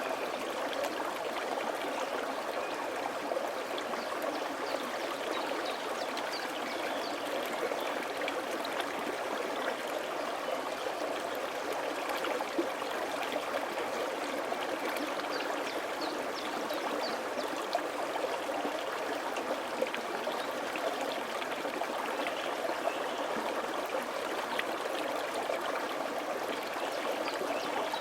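Mountain valley stream flowing steadily over rocks, a continuous rushing of water with small gurgles and splashes.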